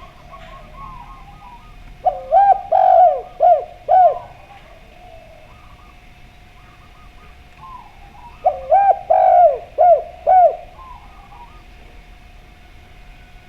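Zebra doves and spotted doves cooing: two loud phrases of about five arched coos each, some six seconds apart, over fainter, higher cooing in between.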